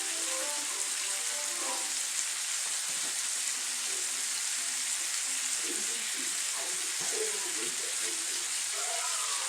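Chicken thighs frying in hot grease in a pan over medium heat: a steady sizzle.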